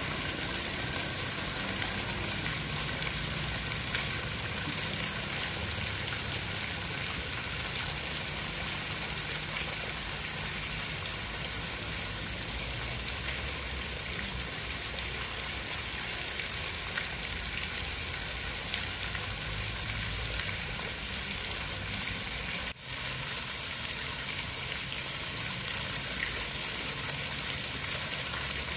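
Steady rain falling: a continuous even hiss with a low rumble underneath. It drops out for an instant about 23 seconds in.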